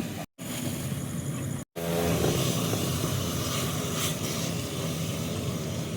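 Vehicle engine and road noise, a steady rumble with a low hum, cut off abruptly twice by edits.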